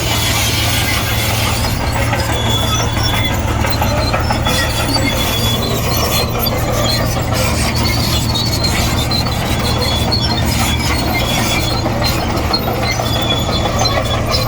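Komatsu D58E crawler bulldozer's diesel engine running steadily, with short high squeals from its steel tracks coming and going every couple of seconds.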